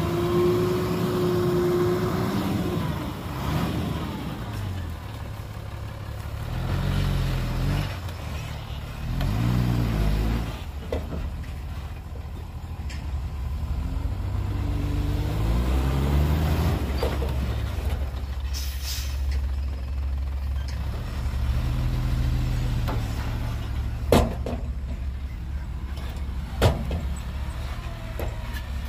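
Heavy diesel engines of dump trucks and earthmoving machinery running, revving up and falling back several times. A short air hiss comes about two-thirds through, and two sharp bangs sound near the end.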